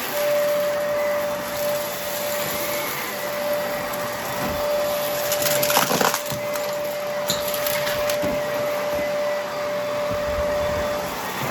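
Vacuum cleaner running with its brushroll spinning: a steady motor whine over a rushing hiss, with crackling and crunching as debris is sucked up, densest about halfway through.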